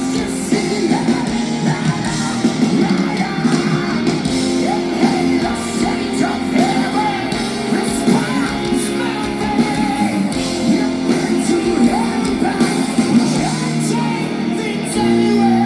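Live rock band playing loud through concert speakers: electric guitars, bass and drums with a wavering lead vocal or guitar line. It settles onto a held chord near the end.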